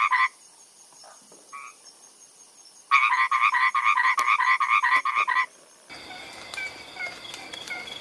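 Frog croaking in a rapid pulsed call, about five pulses a second: a short burst at the start, then a longer run of about two and a half seconds. Near the end a different recording follows, with faint steady background noise and short high chirps.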